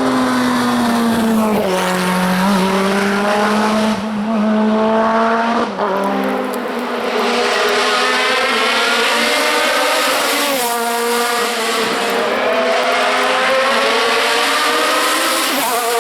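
Racing car engine at high revs, its pitch climbing and dropping back sharply at each gear change, several times.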